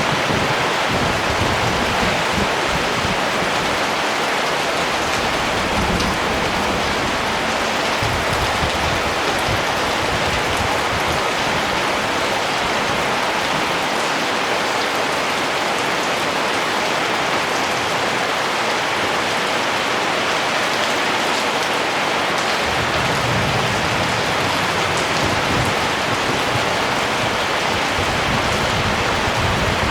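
Steady rain falling, an even hiss of many drops. Brief low rumbles come just at the start and again about three-quarters of the way through.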